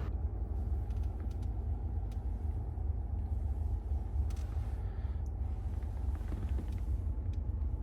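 2014 Ford F-150's 3.5-litre EcoBoost V6 idling steadily, a low rumble heard from inside the cab.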